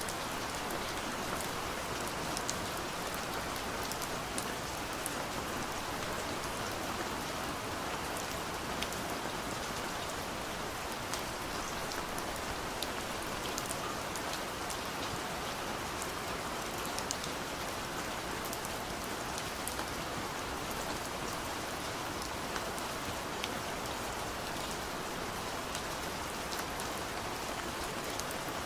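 Soft rain falling steadily on a window, a constant hiss with many small drop taps on the glass.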